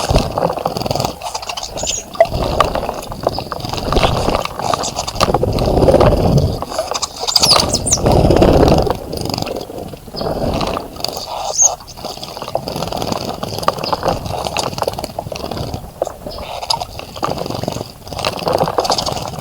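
Birds bathing in a bird bath, splashing and fluttering in the water in uneven bursts, with a few short high bird chirps.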